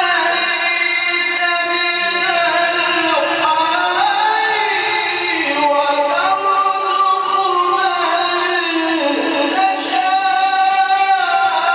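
A male reciter chanting the Quran in the melodic mujawwad style, holding long notes and ornamenting them with bends and runs between pitches. The voice slides downward about three seconds in and again near nine seconds.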